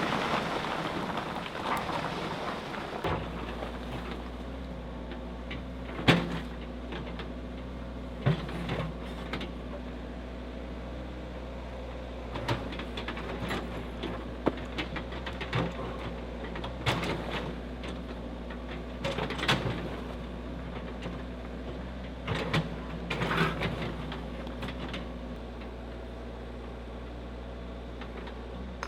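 Heavy earthmoving machinery at work: a noisy rumble for the first few seconds, then an engine running steadily with a low hum, broken by irregular clunks and knocks every few seconds.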